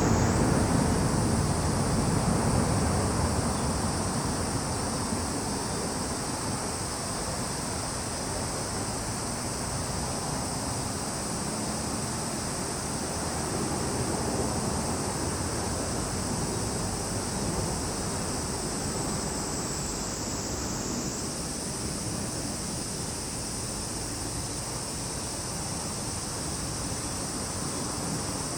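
Summer insects shrilling in a steady high-pitched drone that briefly dips in pitch about twenty seconds in. Under it runs a low rushing background noise that eases off over the first few seconds.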